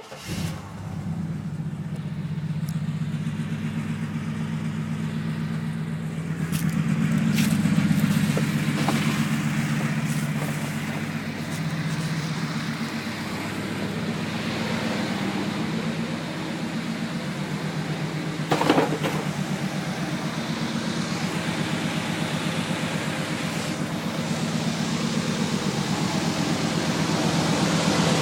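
A truck engine running steadily with a low, pulsing drone that gets louder around eight seconds in, with a brief sharp sound past the middle.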